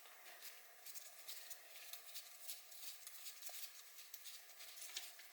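Faint, scattered light clicks and ticks of hand work on a Honda CRF50 engine as its just-loosened cam chain tensioner bolt is backed out.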